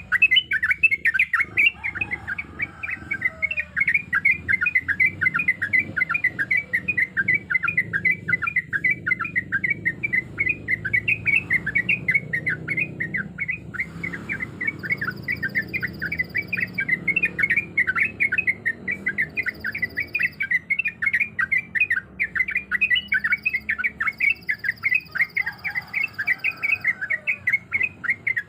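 Yellow-vented bulbul singing a long, unbroken run of quick chirping notes, a few a second.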